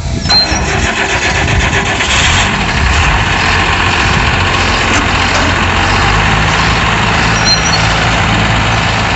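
Truck's diesel engine starting up with a sudden loud catch, then running and settling into a steady idle.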